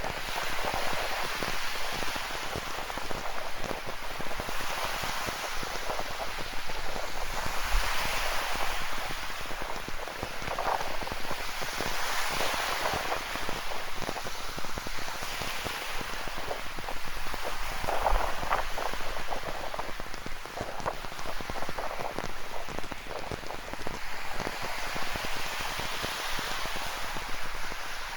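Steady rain with many close drops, over ocean waves washing in and out in slow swells every few seconds.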